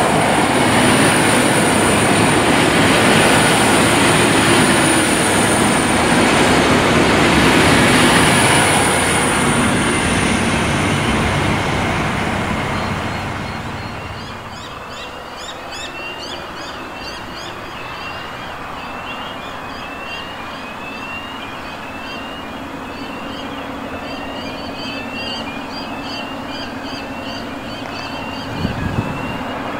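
A heritage diesel passenger train, hauled by EMD locomotives B74 and S303, rumbles past and recedes, fading away over the first dozen or so seconds. After that a bird repeats short rising chirps over the quieter background, and a brief low thump comes near the end.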